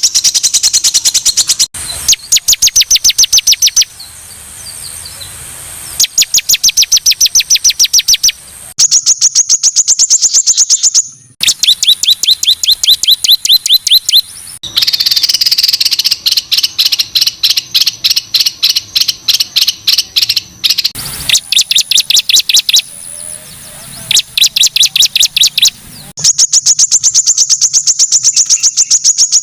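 Songbird singing loud, harsh, high-pitched rapid-fire phrases (tembakan kasar): fast runs of about ten sharp repeated notes a second, each run lasting about two seconds, with short pauses between runs.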